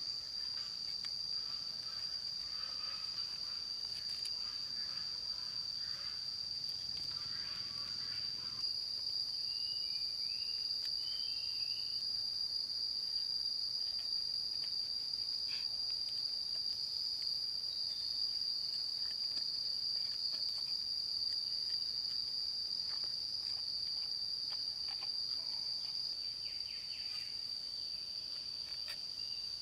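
Steady, unbroken high-pitched drone of jungle insects such as crickets or cicadas. A few short chirps sound about ten seconds in, and there is faint scattered rustling in the first few seconds.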